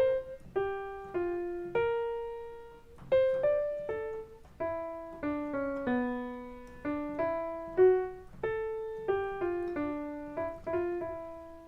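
Piano playing a simple single-note bossa nova melody line in the middle register, a melodic phrase repeated starting on G, each note struck and left to ring.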